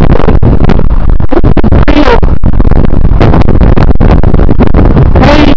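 Heavy wind buffeting the microphone, loud enough to distort, with static. Under it a faint wavering tone comes through about two seconds in and again near the end: the unexplained high-pitched screeching noise.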